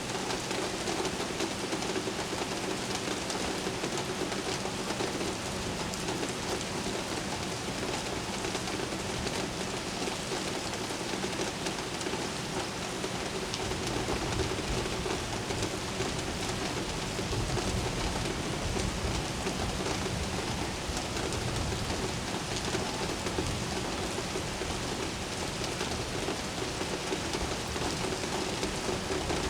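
Steady rain falling on hard surfaces, with a low rumble of distant thunder swelling through the middle. A faint steady hum sits underneath.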